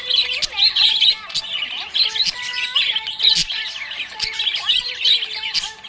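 Budgerigars chirping and warbling without pause, many quick overlapping chirps at once, with a few sharp clicks among them.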